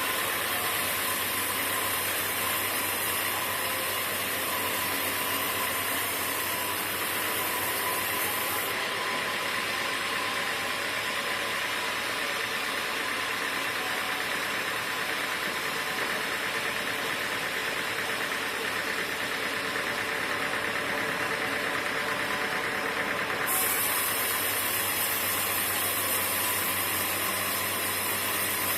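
Sawmill machinery running steadily, a dense mechanical din with a faint hum. A high hiss stops about a third of the way in and comes back near the end.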